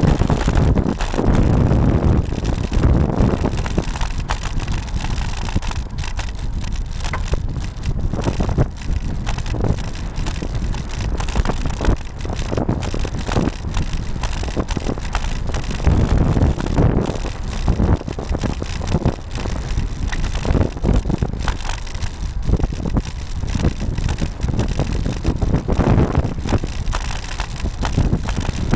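Wind rushing over the microphone of a camera mounted on a moving road bicycle, a dense low rumble that swells and eases several times.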